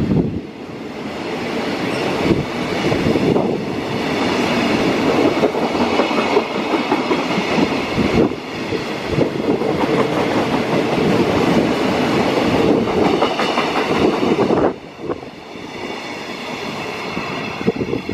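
Freight train passing, its wagons' wheels clattering over the rails in a loud, steady rush with many sharp clicks. The level drops suddenly about fifteen seconds in.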